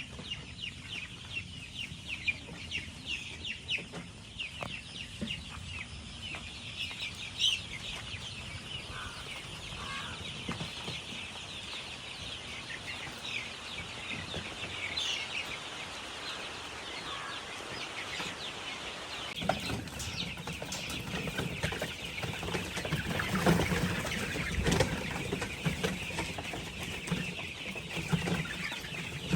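A shed full of chickens clucking and cheeping, many birds calling at once in a steady high chatter. From about two-thirds through, louder, lower clucks join in.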